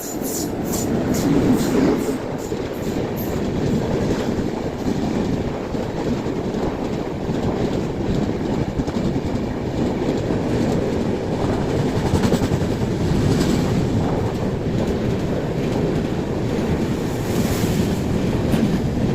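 Kalinga Utkal Express passenger train running, with a steady rumble of wheels on rails. A quick run of clickety-clack as wheels cross rail joints comes in the first few seconds.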